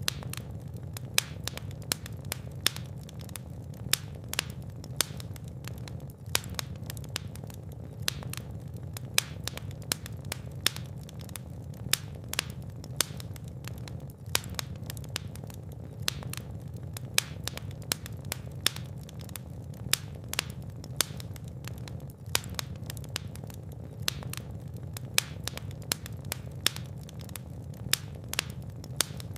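Fireplace fire crackling: frequent sharp pops and snaps, a louder one every second or so, over a steady low rumble of the flames.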